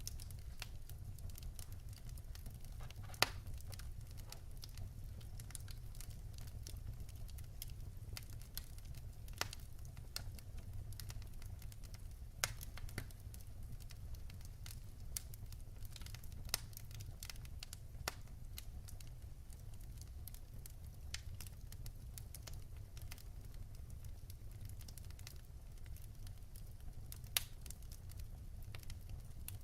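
Fire burning in a fireplace: a steady low rumble with continual small crackles and a few louder sharp pops scattered through.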